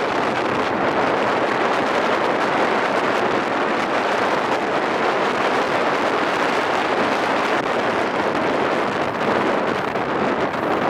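Steady, loud wind noise buffeting the camera microphone aboard a fast-moving rib boat, blended with the rush of the boat over the water.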